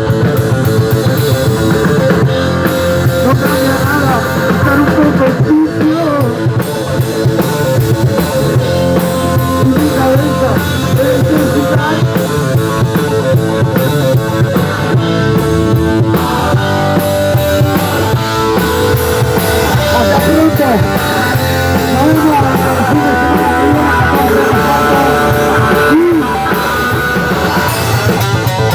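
Live rock and roll band playing, with electric guitars and a drum kit, loud and continuous.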